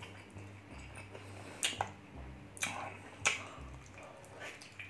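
Close-up mouth sounds of a person chewing soft, sticky braised pork leg (pata tim), with about three sharp wet smacks.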